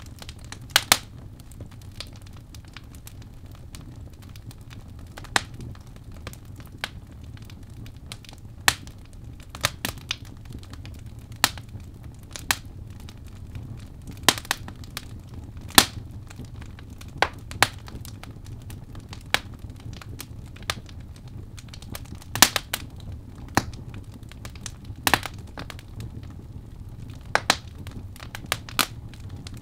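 Birch logs burning in a fireplace: irregular sharp crackles and pops, a few of them loud, over a low steady rumble of the flames.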